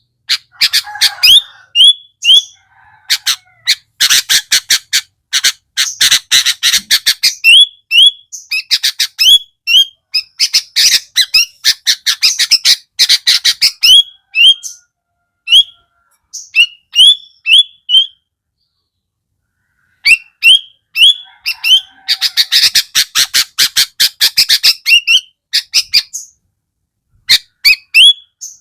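Sooty-headed bulbul calling in rapid harsh rattling bouts, mixed with short sharp upward-sweeping chirps, with a few brief pauses between bouts.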